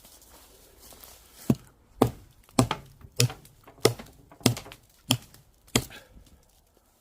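Wood being chopped with an axe: eight sharp strokes in a steady rhythm, about one every 0.6 seconds, starting about a second and a half in.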